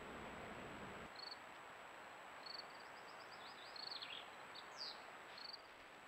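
Small birds chirping faintly: scattered short high notes, a quick run of them, and a few fast downward whistles, over a steady hiss.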